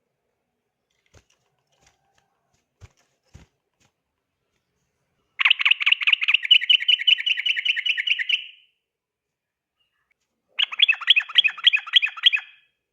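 Yellow-vented bulbul (trucukan) singing its rapid rattling 'ropel' trill. It comes in two bursts of quickly repeated notes, a longer one of about three seconds in the middle and a shorter one of about two seconds near the end, with a few faint clicks before them.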